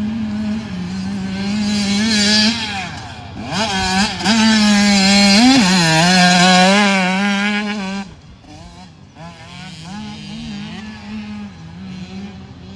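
Motocross dirt bike engine running and revving, its pitch rising and falling with the throttle. It is loudest through the middle, then drops away suddenly about two-thirds of the way through and carries on more quietly.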